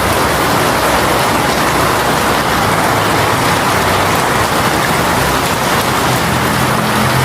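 Heavy rain shower pouring down steadily in an even, dense hiss, with a faint low hum joining in near the end.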